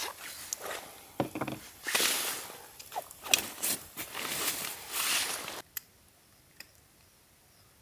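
Close rustling and scuffing from someone moving about and handling things, with a few sharp clicks among it. It stops abruptly a little over five seconds in, leaving quiet with a few faint clicks.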